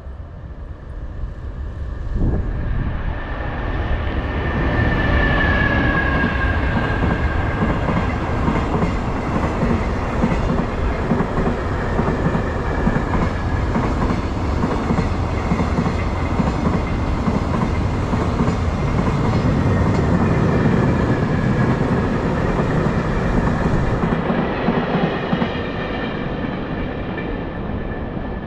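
A JR Freight EF210 electric locomotive hauling a long train of Koki container wagons passes. The sound builds a couple of seconds in, and a high whine drops in pitch about five seconds in as the locomotive goes by. A steady rumble of wagon wheels on the rails follows and eases near the end as the train goes.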